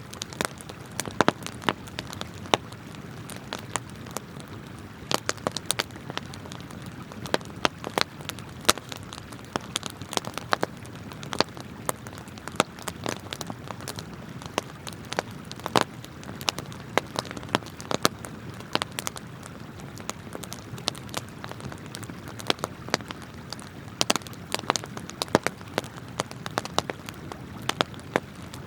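Wood campfire crackling, with irregular sharp pops, several a second, over the steady rush of a flowing river.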